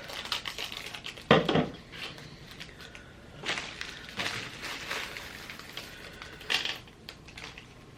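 Small candy decorations and their containers being handled on a table: scattered clicks, light clatters and rustles, the loudest about a second in.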